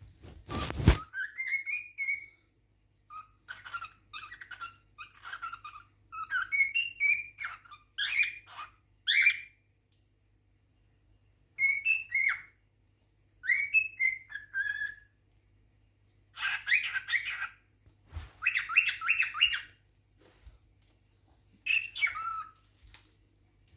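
Male cockatiel singing: short whistled phrases of gliding notes with pauses between them, and stretches of fast chattering warble past the middle. A brief loud noise about half a second in.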